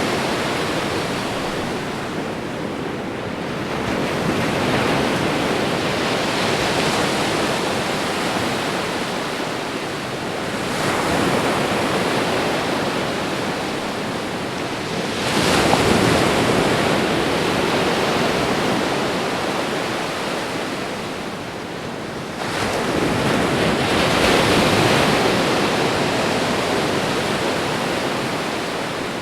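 Ocean waves crashing: a continuous rush of surf that swells with each incoming wave about every six seconds. The loudest, sharpest break comes about halfway through.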